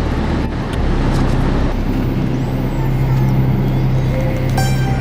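Shinkansen bullet train running at speed, heard inside the passenger cabin: a steady running noise with a low hum.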